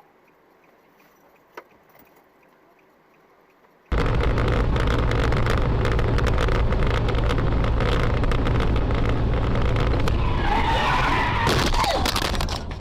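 Faint quiet for about four seconds, then loud car and road noise starts abruptly. Near the end a tyre screech rises over it before the noise dies away.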